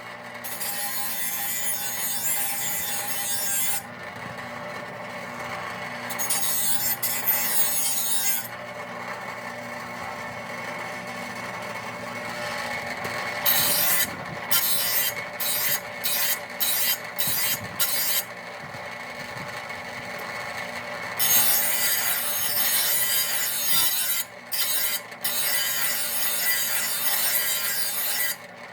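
Steel mower blade being sharpened: a rasping, grinding scrape against the cutting edge in passes a few seconds long, with a run of short quick touches about halfway through.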